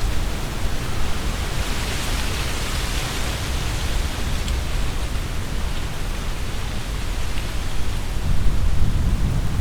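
Strong wind blowing through tree leaves: a steady rustling hiss that swells in a gust a couple of seconds in, over a low rumble of wind on the microphone that grows stronger near the end.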